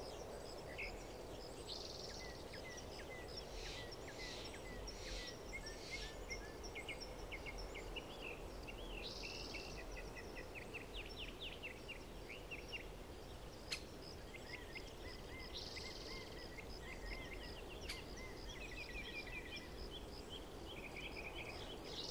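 Small birds chirping and trilling over a steady low outdoor background hum, with two faint sharp clicks near the middle.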